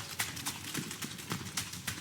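Rapid, irregular clattering knocks, several a second.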